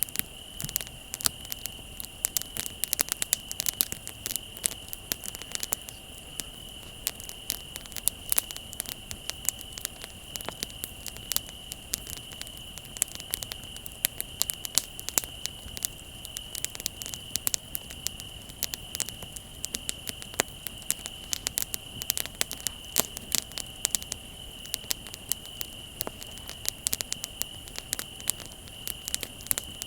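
Wood bonfire crackling, with frequent sharp pops and snaps throughout, over a steady high-pitched trill of crickets.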